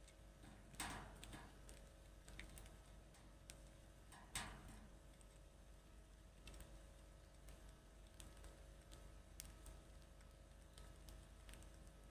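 Faint, scattered clicks and ticks over a low background, with two louder short knocks, one about a second in and one about four seconds in.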